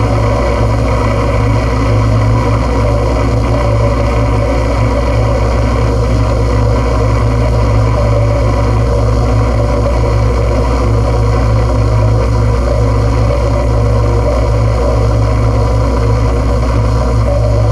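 Loud, unchanging wall of droning noise with a strong low hum underneath; a noise-music recording.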